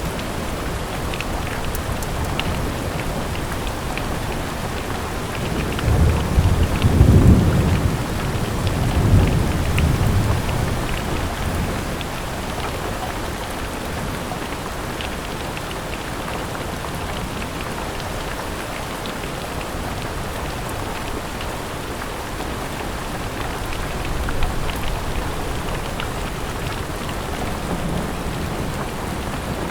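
Steady rain falling, with a low roll of thunder about six seconds in that fades over the next five seconds, and a fainter rumble near the end.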